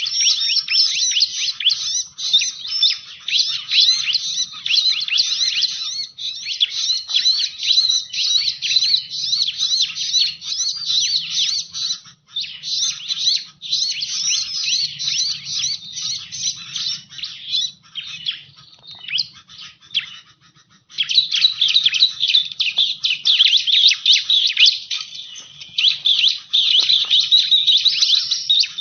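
Bar-winged prinia (ciblek) song used as a lure call: fast, high, continuous chirping that dies down briefly about two-thirds of the way through, then comes back louder.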